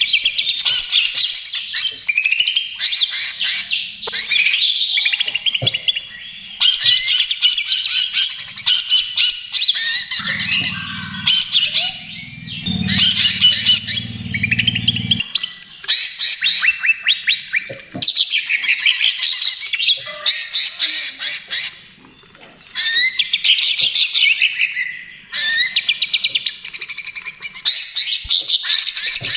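Cucak ijo (green leafbird) singing loud phrases of rapid chattering notes in the trotol style, each phrase a second or two long with short pauses between. A low hum joins in for a few seconds near the middle.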